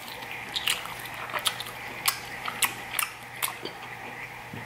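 A person chewing lobster tail meat with the mouth open: irregular wet smacks and clicks, several of them, over a faint steady low hum.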